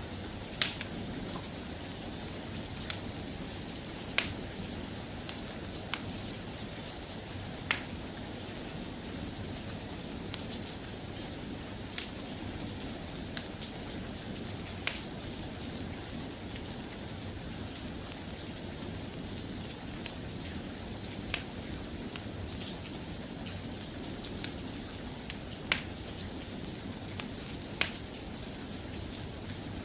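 Steady soft rain, with a dozen or so sharp single clicks scattered through it every second or few.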